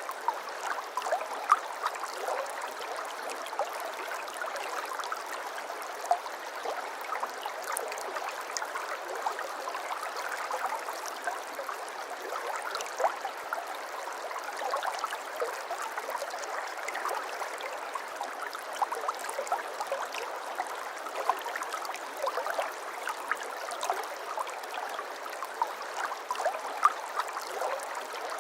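Stream water flowing and babbling steadily, with a constant patter of small gurgles and splashes.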